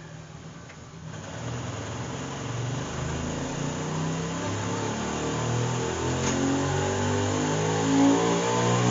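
Honda VTR1000 SP2's 90-degree V-twin, breathing through its stock exhaust, pulling under load on a dyno run: from about a second in the engine note rises steadily in pitch and gets louder.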